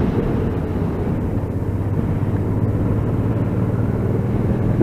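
Motorcycle engine running steadily at road speed, with a low rumble of road and wind noise, heard through a cheap microphone fitted inside the rider's helmet.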